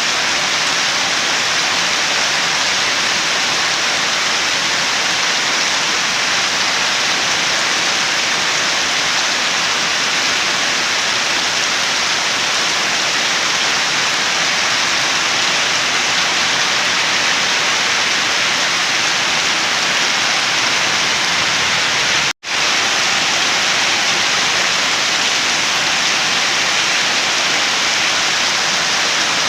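Steady rain falling, an even hiss of rain noise. About three quarters of the way through it drops out for a split second and resumes unchanged, an edit or loop point in the recording.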